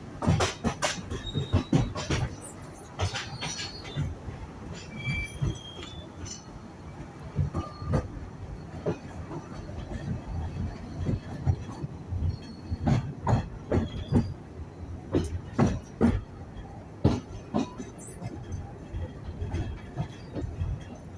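Narrow-gauge railway carriages running on the track: irregular knocks and rattles over a steady rumble, with a few brief wheel squeals.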